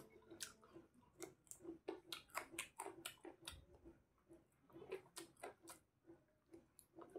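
Faint, wet chewing and mouth smacks of a person eating chicken curry and rice by hand: many short, irregular clicks.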